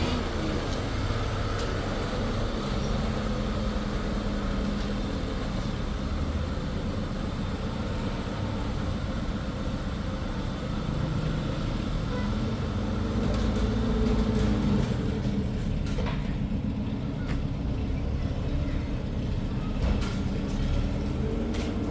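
A motor vehicle's engine running steadily, a low rumble with a hum that strengthens about halfway through.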